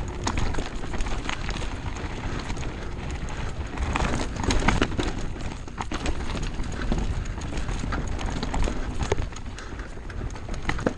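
Downhill mountain bike running over rough trail: wind rumble on the microphone with irregular clattering knocks and rattles from the bike over rocks and roots.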